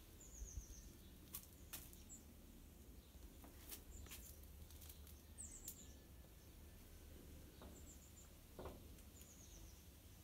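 Near silence with faint bird chirps: short, quick runs of high notes that step down in pitch, heard a few times, plus a few soft clicks.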